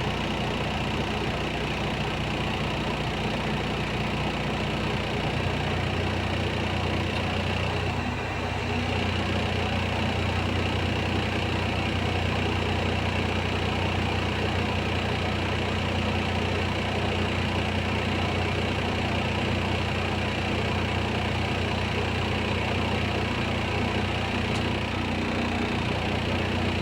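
Heavy diesel engine running steadily with a low, even drone. Its low hum grows stronger about five seconds in.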